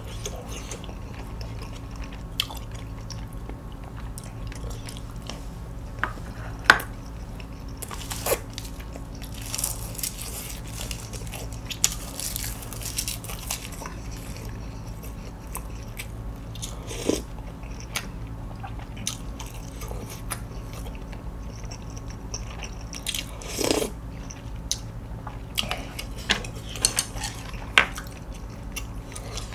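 Close-miked chewing of grilled beef sirloin: soft wet mouth sounds and scattered clicks, a few of them louder, over a steady low hum.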